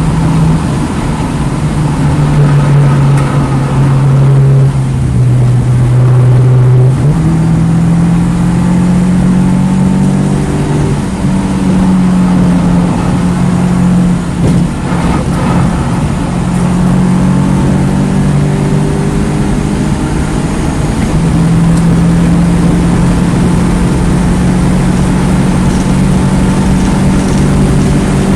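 2009 Mini Cooper S turbocharged four-cylinder engine running hard on track. Its pitch holds for a few seconds at a time and then steps up or down with gear changes, with a brief dip around the middle.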